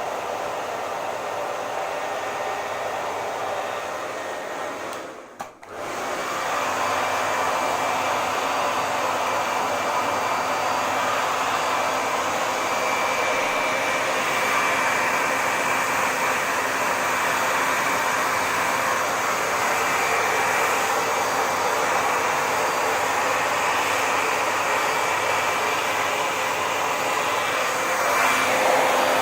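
Hair dryer blowing steadily, with a faint high whine. About five seconds in it briefly dips almost away and comes back a little louder.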